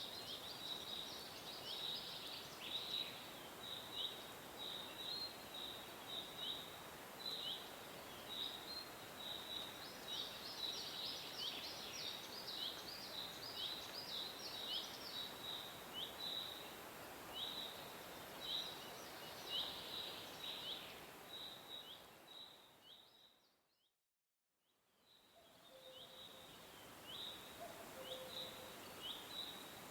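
Small birds chirping steadily: many short, high, falling chirps in quick succession over a faint hiss, with busier flurries now and then. About three quarters of the way through, the sound fades out to silence for about a second, then fades back in.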